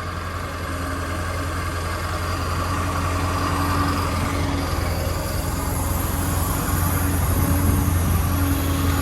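Ford 7.3L Powerstroke V8 turbo diesel running steadily on the truck, slowly growing a little louder, with a tone that starts and stops several times as the boom hydraulics are worked.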